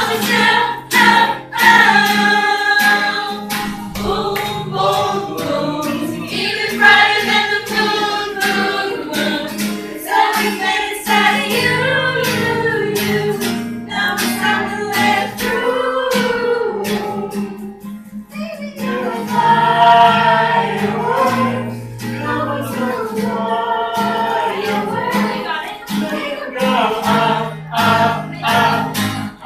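Live pop song: singing over a strummed acoustic guitar.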